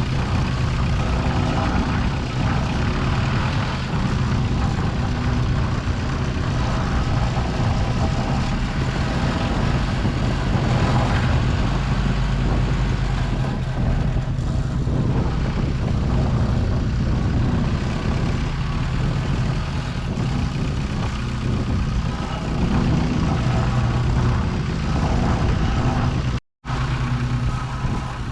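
Diesel engine of a piece of earth-moving equipment running steadily under light, varying load. The sound cuts out completely for a split second near the end.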